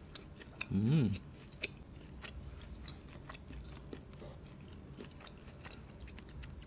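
Close-miked chewing of roast lamb leg, with soft wet mouth clicks and fingers handling sliced meat. About a second in comes a short hummed "mmm" that rises and falls in pitch.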